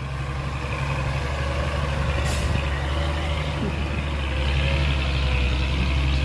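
Heavy diesel engine running steadily under load, with a short hiss of released air, like an air brake, about two seconds in.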